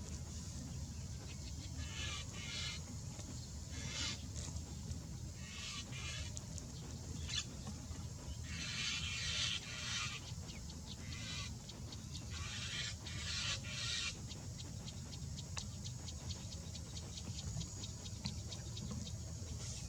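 Bird giving rapid, rasping chattering calls in repeated short bursts, busiest in the first two-thirds and thinning to faint quick clicks near the end, over a steady low rumble.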